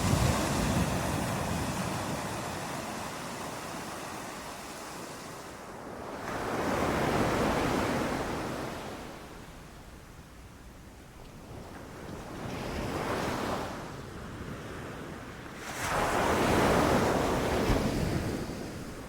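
Ocean waves breaking on a beach in slow surges, one swelling and washing out every few seconds, with a steady hiss of surf between them.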